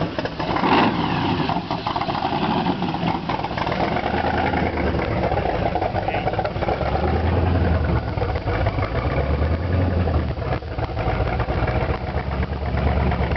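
BDS-supercharged, fuel-injected Chrysler 392 Hemi V8 in a T-bucket hot rod idling just after start-up. There is a brief surge about a second in, then a steady, uneven low rumble.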